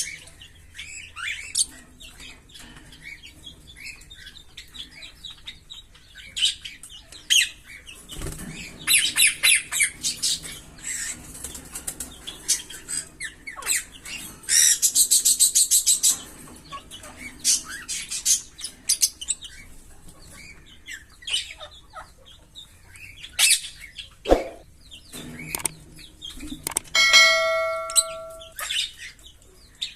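A pair of green Fischer's lovebirds chirping and chattering, with rapid giggling trills of fast high clicks, the longest lasting about a second and a half. Two sharp knocks come in between, and near the end a steady pitched tone sounds for about a second and a half.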